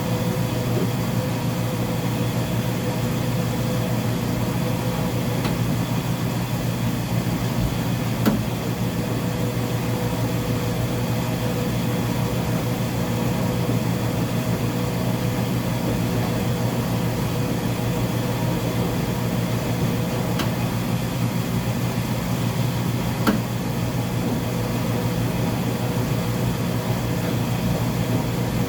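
Uni-Mac UniMat 35 (UC35MD2) commercial washing machine running with a load of blankets: a steady, even hum with no change in pace, and a couple of faint clicks.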